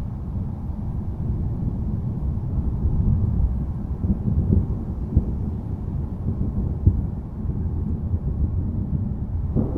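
Low, rolling thunder rumbling continuously, with a few brief crackles in it; a new, louder roll of thunder begins right at the end.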